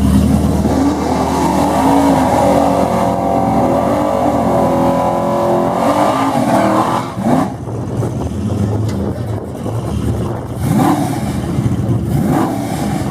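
Drag-race car engine revving hard, its pitch rising and falling several times, then dropping off sharply about seven seconds in.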